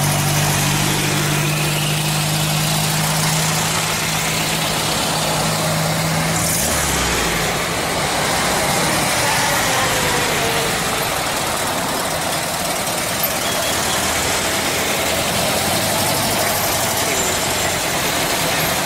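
Vintage Volkswagen Beetles' air-cooled flat-four engines running as the cars drive slowly past one after another, with a steady low drone for about the first six seconds over continuous traffic noise.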